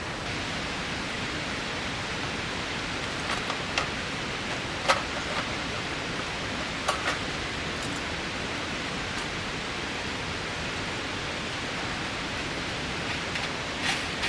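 Steady hiss of heavy rain, with a few sharp ticks or taps scattered through it; the loudest comes about five seconds in.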